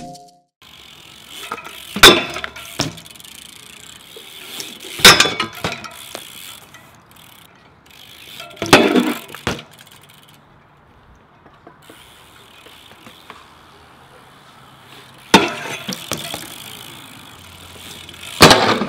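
BMX bikes being ridden on skatepark ramps: five loud, sudden landing impacts spaced a few seconds apart, with the light clicking and rattle of freewheeling hubs and chains between them.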